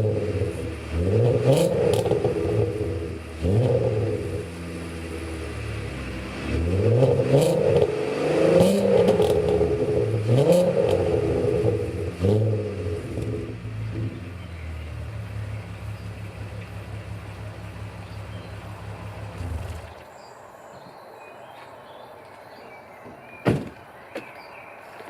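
Volkswagen Golf R32's 3.2-litre VR6 engine through a non-resonated stainless cat-back exhaust, blipped about six times with quick rises in revs and crackles on the overrun, then settling to a steady idle. The engine is switched off about twenty seconds in, and a single sharp knock follows near the end.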